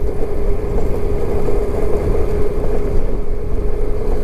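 Motorcycle on the move: a steady engine hum under constant low wind rumble on the microphone.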